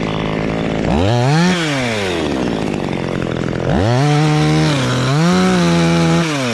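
Chainsaw engine revving up and back down twice: a short rev about a second in, then a longer one held for about two seconds, dipping briefly in the middle, before dropping back.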